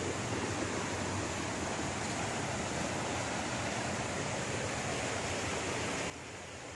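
Steady rush of flowing water from a stream, an even hiss with no pauses. It drops suddenly to a lower level near the end.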